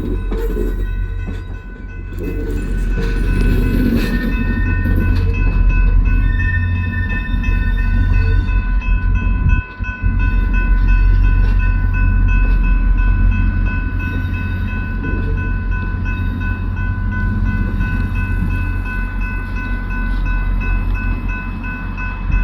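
VIA Rail passenger train's diesel locomotive running with a loud, steady low rumble, several steady high-pitched tones sounding over it.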